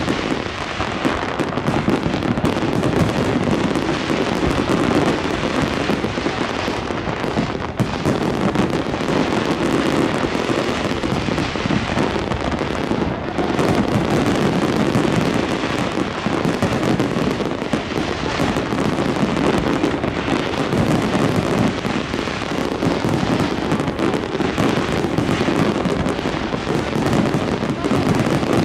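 Fireworks display at full intensity: many overlapping bangs and crackles run together in a dense, continuous barrage with no break.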